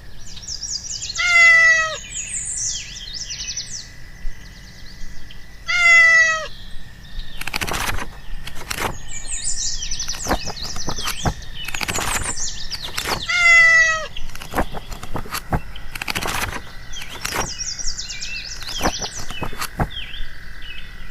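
A cat meowing three times, each call falling in pitch, over continuous birdsong chirping. Sharp clicks sound here and there between the meows.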